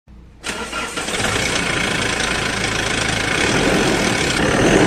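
A Mahindra Scorpio SUV's engine catches about half a second in and then runs steadily with a rough clatter.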